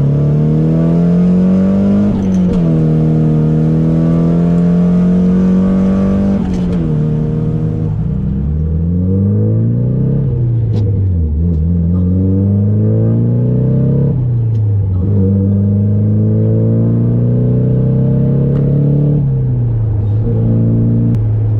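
Nissan 240SX drift car's engine pulling and revving, its pitch climbing, holding, then dropping sharply several times as the driver shifts gears or lifts off the throttle.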